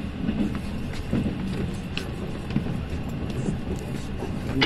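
Passenger train running along the track, heard from inside the coach: a steady low rumble of wheels on rail with a few short knocks, one sharper click near the end.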